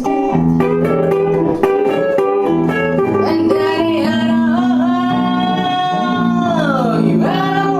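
Live band music led by guitar, with singing. A long held note slides down in pitch near the end.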